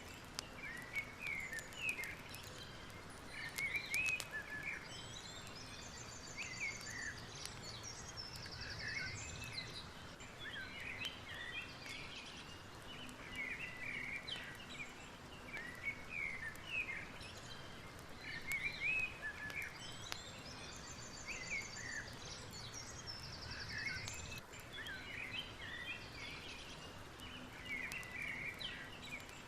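Many birds chirping and calling throughout, with a few fast trills, over a steady soft background noise.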